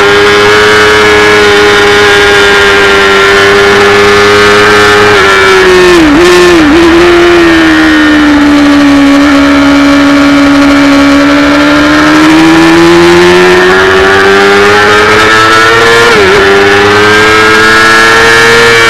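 Kawasaki 400 cc race bike's engine at high revs under full throttle. About five seconds in there are quick downshifts with throttle blips, then the revs hold lower through a long corner and climb again, with a quick gear change near the end. Wind rush sounds underneath.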